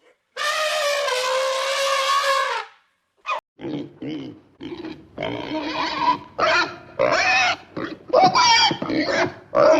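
An animal calling: one long, high, slightly falling squeal lasting about two seconds, then a quick run of short squeals and grunts.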